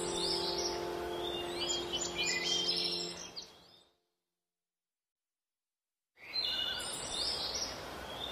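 Birds chirping over sustained ambient music notes that fade out about three and a half seconds in. After about two seconds of dead silence, birdsong with a steady background noise starts again.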